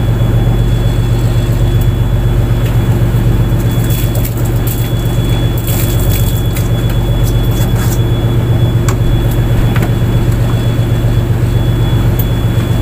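Fishing boat's engine running steadily under way, a deep even drone, with a few light clicks and knocks in the middle.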